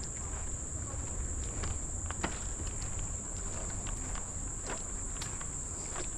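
Footsteps walking along a forest trail, irregular short steps, over a steady high-pitched drone of insects.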